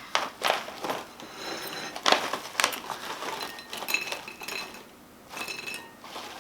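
A snack bag crinkling and pork rinds rustling as they are handled, in a string of sharp crackles.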